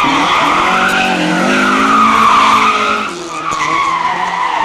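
Racing car engine revving hard, its pitch climbing and falling back again and again through quick gear changes. It eases off noticeably about three seconds in.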